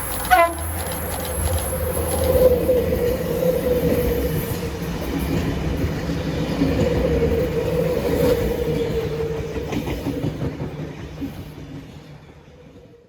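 Train running on the rails, with a long, slightly wavering tone held over the rumble for several seconds and a short falling whistle-like sweep near the start; the sound fades out near the end.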